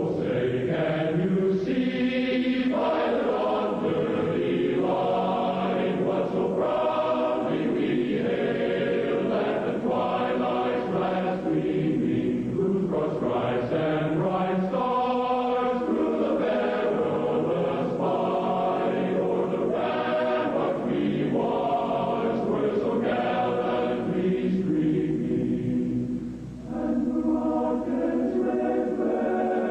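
A choir singing a slow piece in long, held phrases, with a short break between phrases near the end.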